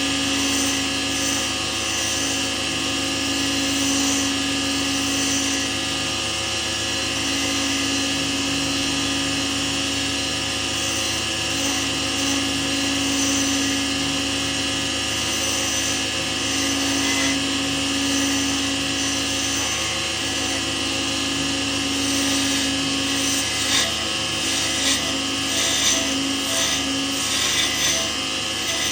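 Lathe motor running steadily with a constant hum, with a few short scraping sounds near the end as a tool touches the spinning work.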